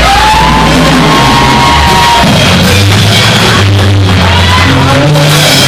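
Live church praise band playing loud upbeat music, its bass moving through held notes, with voices shouting and singing over it.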